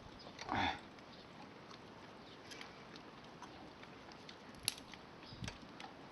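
Eating sounds: a short breathy sound about half a second in, then faint scattered clicks and soft taps while chewing grilled meat.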